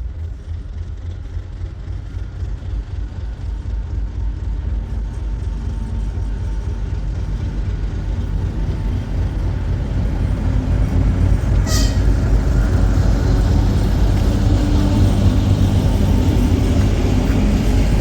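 Train approaching, its low rumble growing steadily louder, with one short sharp click about twelve seconds in.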